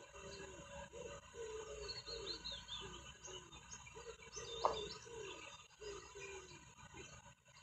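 Wild birds chirping and calling: a run of short, falling low calls repeated every half second or so, with higher chirps and a quick descending trill over them. One brief sharp sound about four and a half seconds in.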